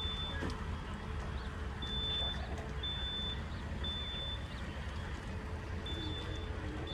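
A high electronic beep of about half a second, repeating roughly once a second with a longer pause in the middle, over a steady low rumble.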